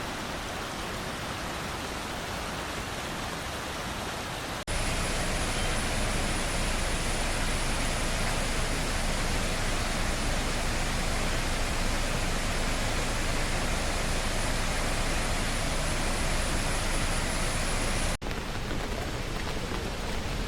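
Waterfall: steady rushing water noise in three cuts. The sound jumps louder about five seconds in, with a faint thin high tone above it, then drops back a little near the end.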